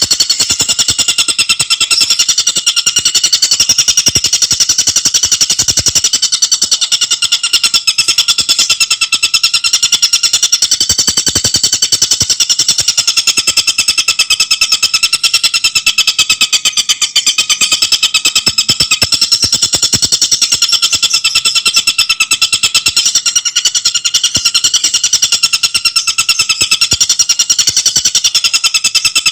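Tengkek buto bird song: a loud, very rapid rattling trill that runs on without a break, high-pitched and even.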